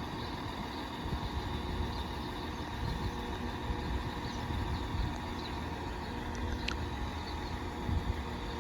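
Class 197 diesel multiple unit standing at the platform with its doors shut and its engines running, a steady low rumble, just before it pulls away. A short sharp click about two-thirds of the way through.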